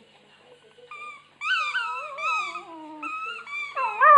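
Labrador puppy whining and howling in a series of high, wavering cries that bend up and down in pitch, starting about a second in and growing louder toward the end. This is the howling the puppy does while chewing his squeaky toy.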